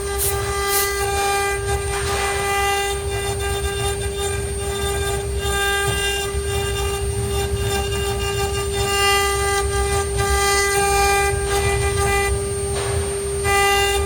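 CNC router running: a steady high whine with further tones above it that start and stop every second or so, over a low rumble, and a brief hiss about two seconds in and again near the end.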